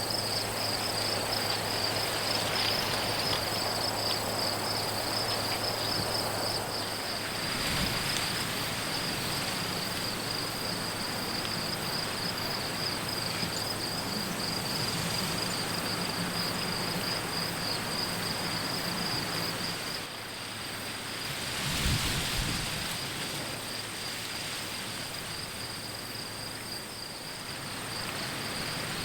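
A high, steady, pulsing chorus of insects trilling, over a constant hiss of open air and a faint low hum. About two-thirds of the way through, the trilling thins and a short low rumble of wind on the microphone swells and fades.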